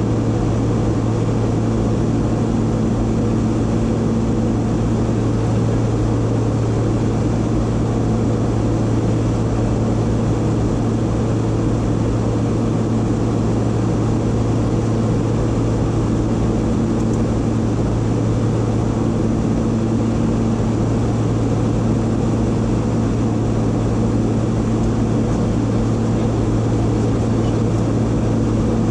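Private jet in cruise flight: a steady drone of engines and airflow with a low, constant hum and a fainter tone above it that fades in and out.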